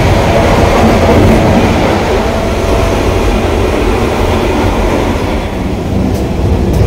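Vande Bharat Express trainset running, heard from inside the coach: steady running noise of the wheels on the track.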